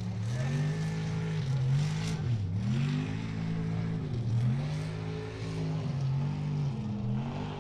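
Mud truck's engine revving hard. The revs drop sharply and climb back twice, then hold steady.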